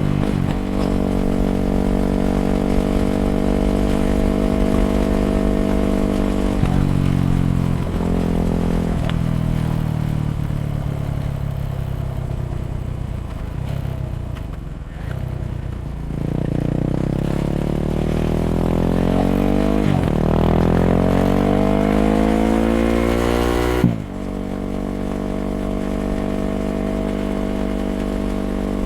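Yamaha WR250X's single-cylinder four-stroke engine through an FMF Q4 exhaust, ridden under way. The revs drop sharply a few times as gears change, fall away while the bike slows, then climb in a long rising pull with gear changes about two thirds of the way through and near the end.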